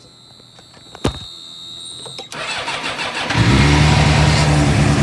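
A 2006 Suzuki GSX-R 600's inline-four engine being started: a sharp click about a second in, then the starter cranks from a little past two seconds. The engine catches just after three seconds and settles into a steady idle. It now starts because the burned ignition fuse has been replaced.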